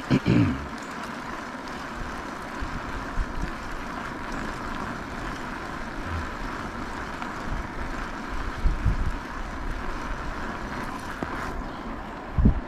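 Steady riding noise from an e-bike in motion, with wind rumbling on the microphone. Loud low knocks right at the start and again just before the end.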